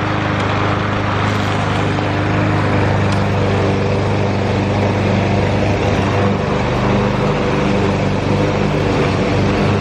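Walk-behind gasoline push mower engine running steadily at working speed while cutting tall grass.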